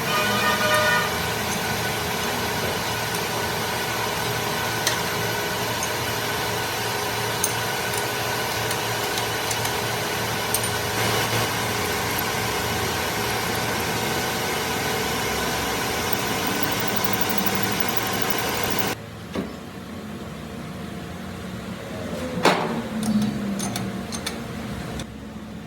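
A machine runs loud and steady, then cuts off abruptly about three quarters of the way through. Afterwards it is quieter, with a few sharp knocks.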